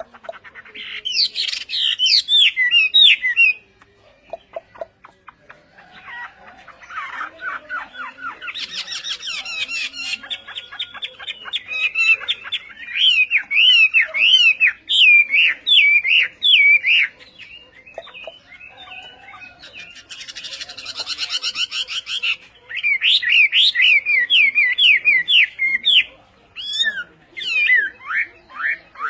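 Hwamei (Chinese hwamei songbird) singing a loud, varied song: long phrases of rapid whistled notes with short pauses between them. Two passages, about a third of the way in and again past the middle, turn buzzier and harsher.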